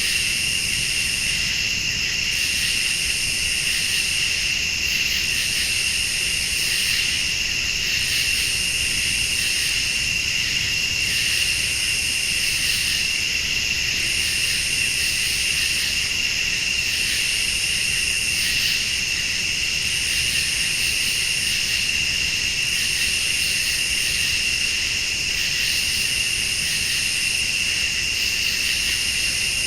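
Night chorus of crickets and late-summer insects: a steady high trill, with a higher insect call that repeats in bursts about every two and a half seconds.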